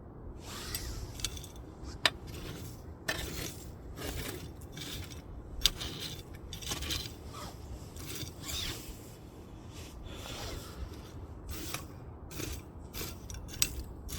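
Wood fire burning, with irregular crackling and short hisses and a few sharp pops of burning firewood.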